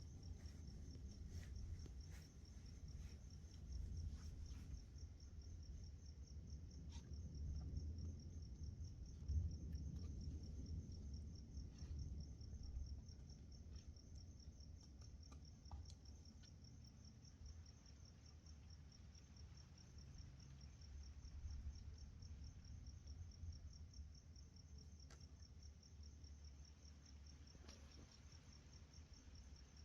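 Night insects chirping steadily in a fast, even, high-pitched pulsing trill, faint, over a low rumble that swells and eases during the first half.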